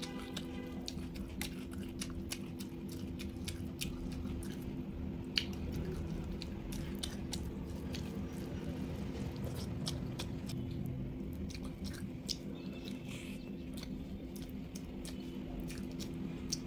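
Close-up chewing and wet lip smacking on a mouthful of rice and egg curry, with many short moist clicks throughout, along with fingers squishing rice and gravy on the plate.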